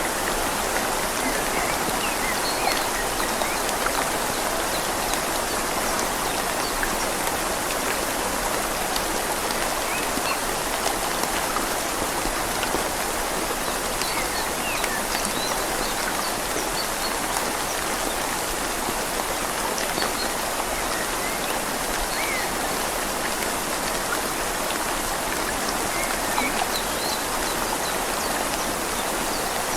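Steady rain falling on leaves over a gently flowing river: an even, unbroken hiss with many small scattered drips.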